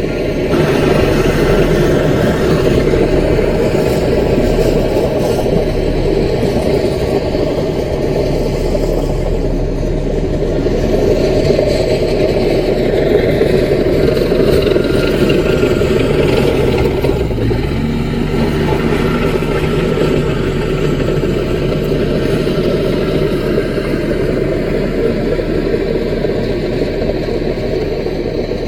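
Diesel engine of a small Caterpillar bulldozer running steadily while it works, with a shift in engine pitch a little past halfway.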